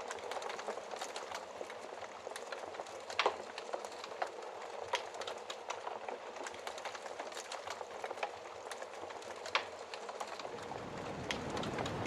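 Wood fire crackling, with irregular sharp pops and snaps over a soft hiss; the loudest pop comes about three seconds in. Near the end a low rush of snowstorm wind swells up underneath.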